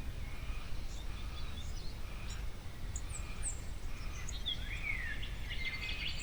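Several wild birds calling: scattered short high chirps and whistles, with a falling whistle about four and a half seconds in and a busier burst of calls near the end, over a steady low background rumble.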